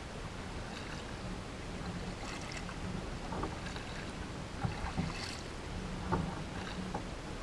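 Kayak being paddled: scattered paddle splashes and a few short knocks, over a steady background hiss.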